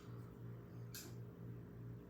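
A faint low hum that pulses about twice a second, with a single sharp click about a second in.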